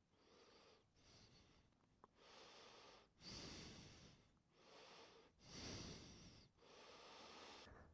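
Faint breathing close to the microphone: a slow series of soft breaths in and out, about six or seven in all.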